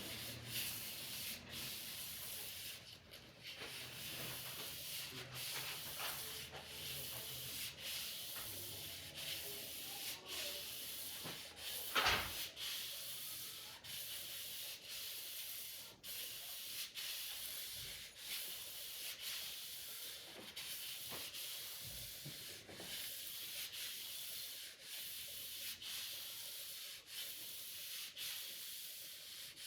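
Steady rubbing, scraping hiss with a short break about every second and a bit, and one knock about twelve seconds in.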